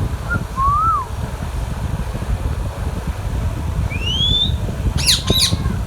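Indian ringneck parrot whistling and screeching: a short rising-then-falling whistle near the start, a rising whistle about four seconds in, then two or three sharp screeches near the end. A steady low rumble runs underneath.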